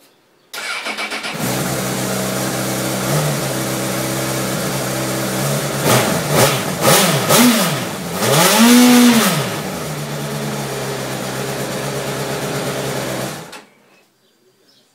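Honda CBR1000RR Fireblade's inline-four engine starting about half a second in and idling, with a short blip, then several quick revs up and down, the biggest near the middle, before settling back to idle and being switched off abruptly about a second and a half before the end.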